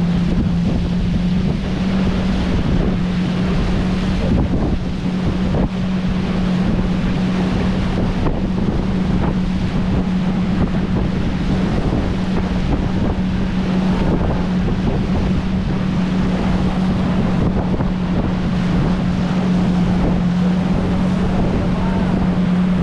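Tow boat's motor running at a steady speed under way, a constant drone, with wind buffeting the microphone and water rushing past.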